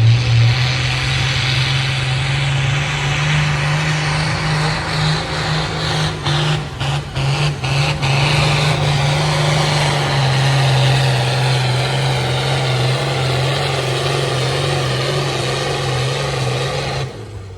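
A pulling tractor's engine running loud and steady, its pitch climbing at the start. It falters briefly a few times about six to eight seconds in, then cuts off suddenly near the end.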